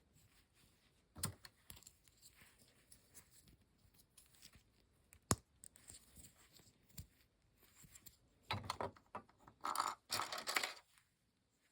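Small plastic model-kit parts and packaging handled at close range: scattered light clicks, a sharp click about five seconds in, then plastic wrapping rustling in two bursts near the end.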